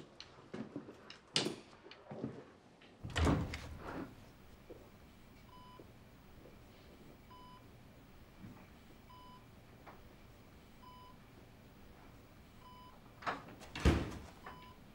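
Quick footstep-like clicks, then a heavy thump. After that, an electronic bedside patient monitor beeps steadily, one short pure tone about every two seconds. Another loud thump comes near the end.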